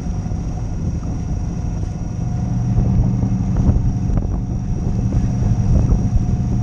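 Sailboat's engine running steadily while motoring, with wind on the microphone; it gets a little louder about two and a half seconds in.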